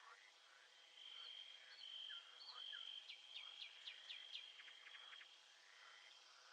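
Faint nature ambience of birds and insects: a high steady insect trill with scattered bird chirps, and a bird's quick run of about six sweeping chirps a little past the middle.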